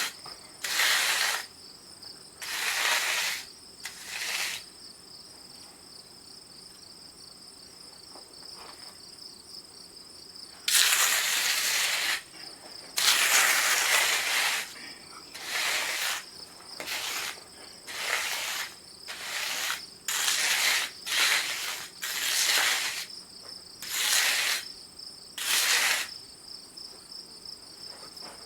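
Steady high insect trilling, with over a dozen harsh scraping strokes, each half a second to a second and a half long, coming irregularly; the longest two are about eleven and thirteen seconds in.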